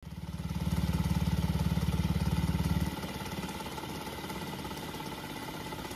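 Scooter engine running with a loud, fast rhythmic pulsing for about three seconds, then dropping suddenly to a quieter steady idle. It is the abnormal engine noise that the mechanic diagnosed as a damaged crankshaft bearing.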